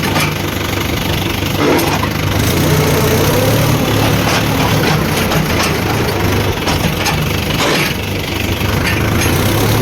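Diesel engines of heavy machinery running steadily, with scattered clanks and knocks over the engine note.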